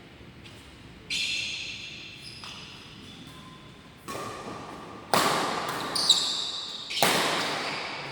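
Badminton play echoing in a sports hall: sharp smacks of rackets on the shuttlecock, the loudest about five and seven seconds in, and high squeaks of court shoes on the floor about a second in and again near six seconds.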